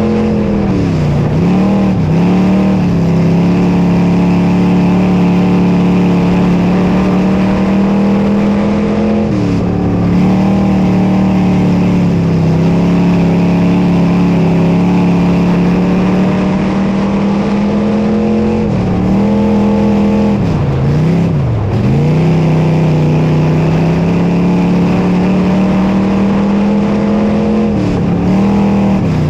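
Dirt modified race car's V8 engine running hard at high, steady revs. Its pitch dips sharply and climbs back a few times, as the throttle is lifted and reapplied.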